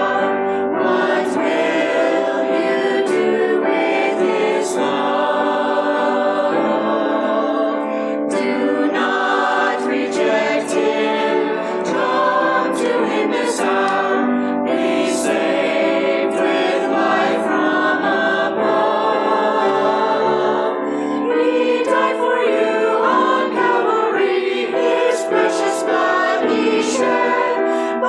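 A church choir singing sacred Christmas choral music, many voices in harmony.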